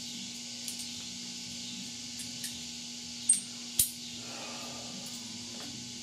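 Two sharp metallic clicks about half a second apart, midway through, with a few faint ticks, from hand tools or metal parts being handled while fitting a sheet-metal patch panel, over a steady hiss and low hum.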